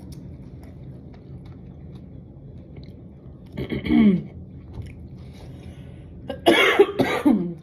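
A woman coughing, brought on by the heat of spicy food: a short cough about three and a half seconds in, then a louder, harsher one near the end.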